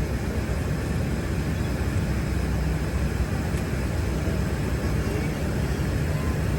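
Steady low rumble of cabin noise inside a Boeing 777-300ER airliner.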